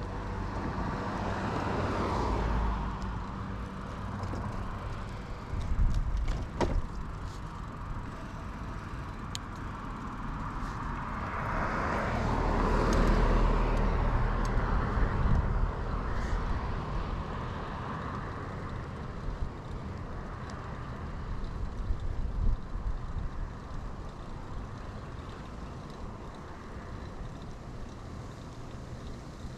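Road traffic heard from a moving bicycle: a low steady rumble of wind and tyres, with motor vehicles passing, the loudest about two seconds in and again around twelve to fifteen seconds, plus a few short knocks.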